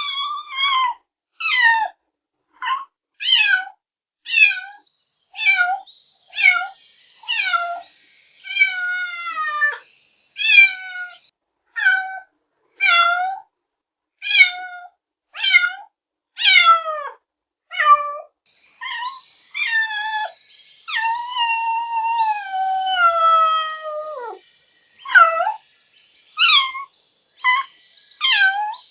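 A cat meowing over and over, about one call a second, each meow falling in pitch; a little past the middle comes one longer, drawn-out meow.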